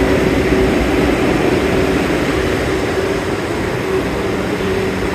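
New York City subway shuttle train running, heard from inside the car: a steady rumble with a steady hum over it, easing slightly toward the end.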